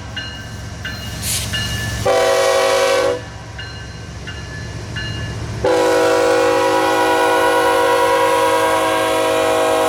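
Diesel locomotive's multi-chime air horn sounding for a grade crossing: a short blast about two seconds in, then a long blast from a little past halfway that holds on. This is the short-then-long close of the crossing signal. A low locomotive rumble continues between the blasts.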